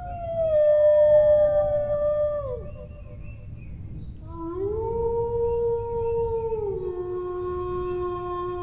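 Dogs howling: a long drawn-out howl, with a second voice gliding alongside, falls away about two and a half seconds in; after a short pause a new howl rises, holds, then drops to a lower held pitch and carries on.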